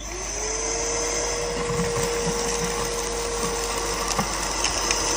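A 600-watt electric vacuum cleaner switching on: the motor's whine rises as it spins up, then it runs steadily with a rushing airflow. A few light clicks come near the end.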